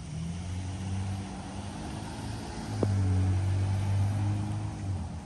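A car's engine running as it goes by on the street, a steady low hum that gets louder a little past halfway through and then eases off near the end, with a brief click as it swells.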